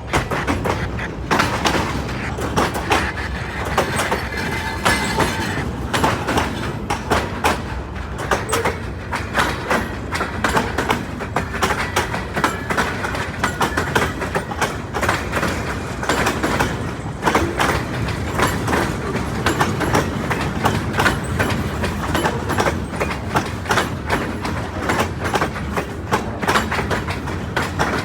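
Freight train rolling past: a steady, dense clatter of steel wheels clicking over the rail joints over a rumbling of the cars.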